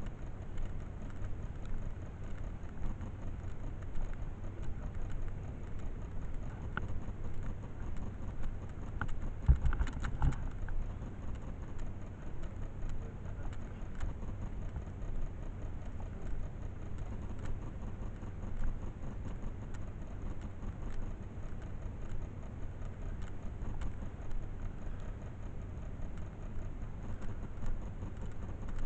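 Motorcycle engine running with a steady low rumble, under an even noisy hiss; a short cluster of louder knocks about ten seconds in.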